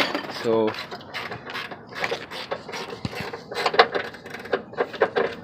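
Hand ratchet wrench clicking in quick irregular runs, with sharp metal tool clicks.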